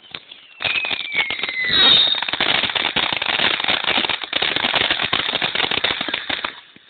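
Fireworks going off in a dense, rapid crackle of small bangs, with a falling whistle about a second in; the crackling stops suddenly near the end.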